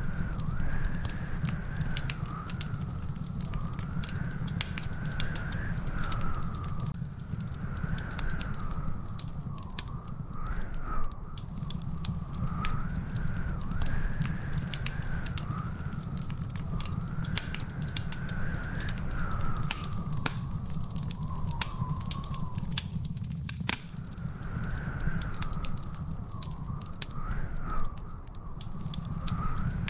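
Wood fire in a fireplace crackling, with frequent sharp pops over a steady low rumble. A wavering whistling tone rises and falls above it, with short breaks.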